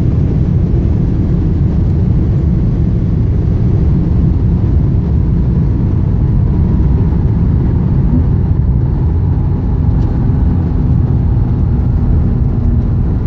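Porsche Turbo engine and road noise heard from inside the cabin at high speed, a loud, steady rumble.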